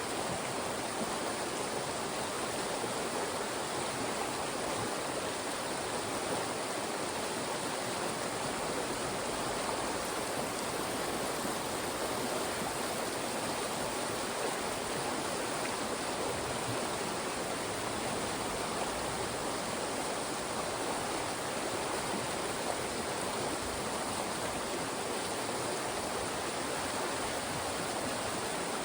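Fast-moving mountain stream rushing steadily over and between rocks, a continuous even water noise.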